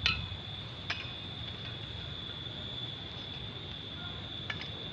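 A steady, high, thin insect drone, like a cricket or cicada, with a few faint sharp clicks: one at the start, one about a second in and one near the end.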